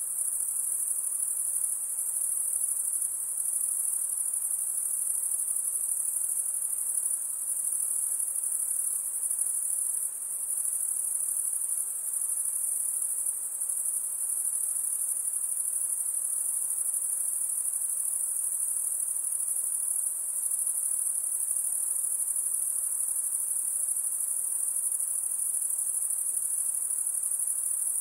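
A continuous, very high-pitched insect chorus: one steady shrill trill that never pauses.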